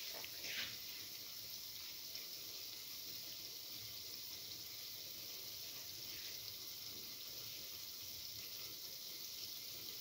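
Garlic chickpea-flour fritter batter frying in hot oil in a cavity pan: a steady, faint sizzle, with a couple of louder crackles in the first second.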